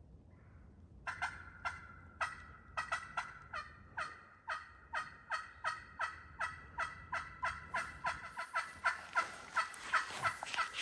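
Hen turkey yelps played on a friction pot call: a long series of sharp, scratchy notes starting about a second in, coming faster and louder toward the end.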